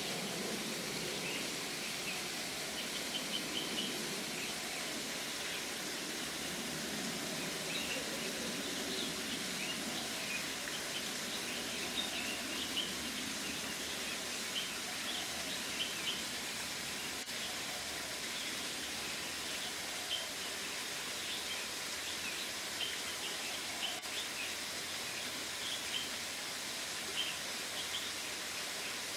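Bulbuls giving short, scattered chirps over a steady background hiss.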